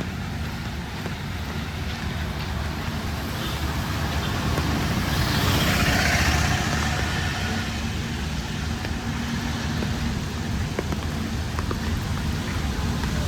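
Street traffic: a steady low engine rumble, with a vehicle passing close, its hissing noise swelling to a peak about six seconds in and then fading.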